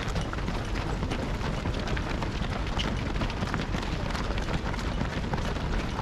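Footsteps of a large pack of marathon runners on the road: many overlapping steps making a dense, continuous pattering.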